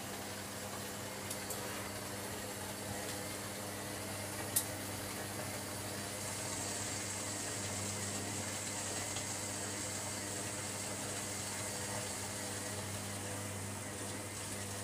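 Hoover washing machine running its cotton 60 wash: a steady hum with a hiss that grows louder about six seconds in, and one sharp click about four and a half seconds in.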